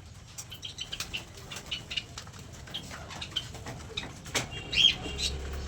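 A flock of aviary birds moving about, with scattered wing flaps and light clicks and pattering from feet and beaks. There are a few short chirping calls, the clearest just before five seconds in.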